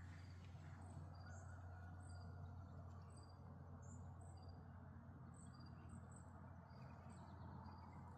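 Near silence outdoors: faint, short high chirps repeating irregularly, about twice a second, over a low steady hum.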